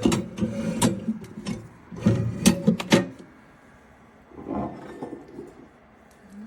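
Glass wine bottles knocking and clinking against the shelves of a small countertop wine cooler as they are slid in, in two bursts of sharp knocks in the first three seconds, then softer handling sounds.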